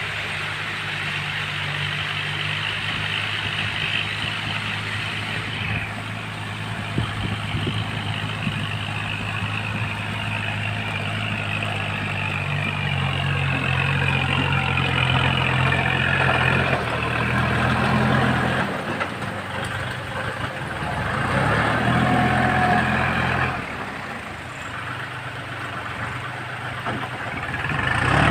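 Kubota tractor's diesel engine running under load while rotary-tilling a rice paddy, with a steady engine note that shifts and briefly drops a few times.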